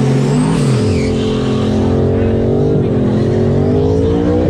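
Loud car engine running at a steady pitch, dipping about a second in, then revving up over the last couple of seconds and dropping back sharply near the end.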